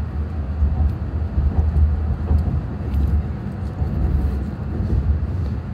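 Interior running noise of an E6-series Akita Shinkansen Komachi train pulling out of the station: a steady low rumble through the carriage with a few faint clicks.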